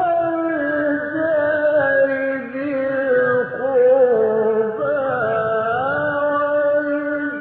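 A male Quran reciter chanting in the ornate mujawwad style, drawing out a long melismatic vowel whose pitch slides and wavers through ornaments in one unbroken phrase.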